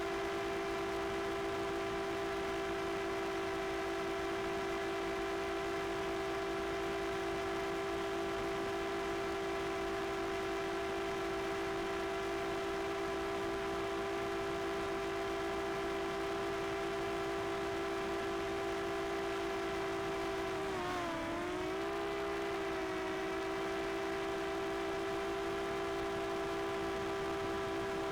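Drone propellers and motors whining steadily at one pitch; about two-thirds of the way through, the pitch dips briefly and then settles back.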